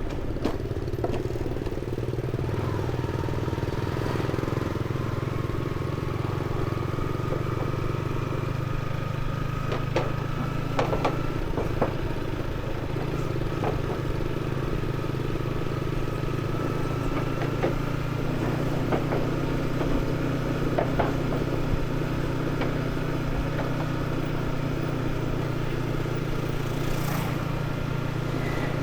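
Motorcycle engine running steadily under way, with a faint whine that slowly rises in pitch and a scattering of short clicks and rattles.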